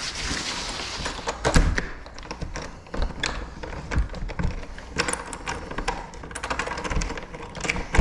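Small metal lock parts clicking, tapping and knocking irregularly as the lock hardware is handled and worked on during a rekey.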